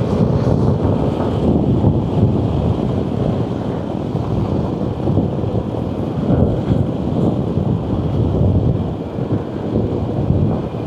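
Loud, steady wind buffeting on the microphone of a motorcycle rider moving at speed, a dense low rumble that masks the engine.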